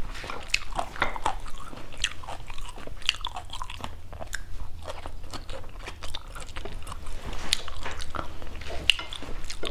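Close-miked chewing and biting of stir-fried green beans: irregular crisp crunches and mouth clicks.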